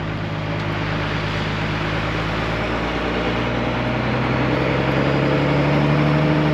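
Car engine running and road noise heard from inside the cabin while driving, the engine note rising a little and getting louder about halfway through.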